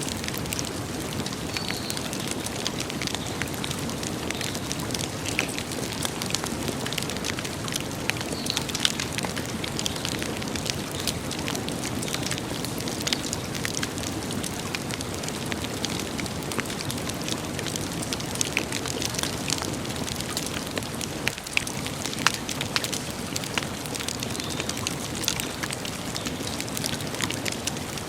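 Campfire burning steadily with irregular crackles and sharp pops over a low hiss.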